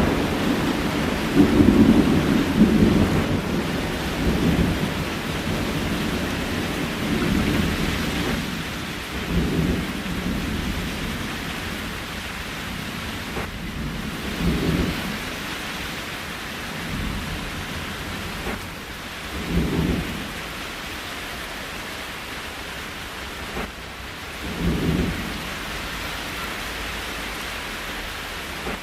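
Steady rain with low rumbling, heavy in the first few seconds, then dropping to brief low swells about every five seconds.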